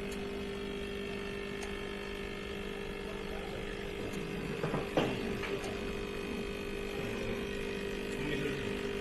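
EM3601 coffee maker running with a steady hum as it dispenses, with a short knock about five seconds in.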